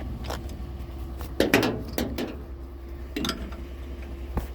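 Hard objects being handled, clinking and knocking about five times, over a steady low rumble.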